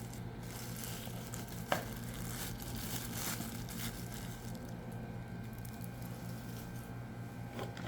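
Plastic packaging and small parts being handled, crinkling and rustling, with a few light clicks and knocks, over a steady low hum.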